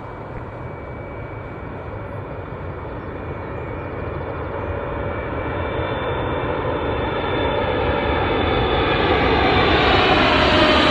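Boeing 777 twin-jet airliner on final approach, the noise of its engines and airframe growing steadily louder as it nears, with a faint whine over the rushing jet noise.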